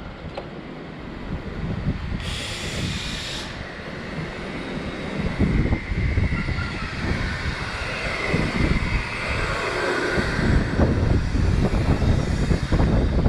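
Wind buffeting the microphone over road rumble while riding an e-bike through traffic, with a brief hiss about two seconds in.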